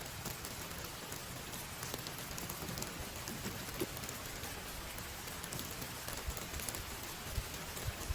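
Heavy rain falling steadily, with scattered sharper drop hits and a couple of short low thuds near the end.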